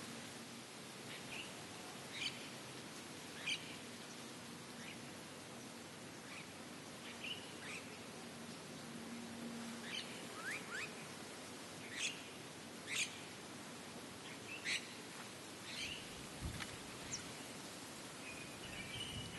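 Small birds chirping now and then, short sharp high calls with a few quick rising notes, over a steady background hiss.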